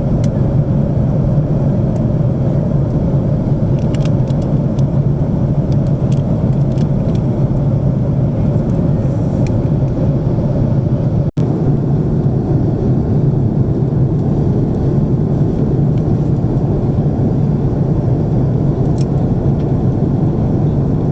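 Steady cabin drone of an Airbus A330-300 heard from an economy seat: engine and airflow noise as a deep, even hum, with a brief dropout about eleven seconds in.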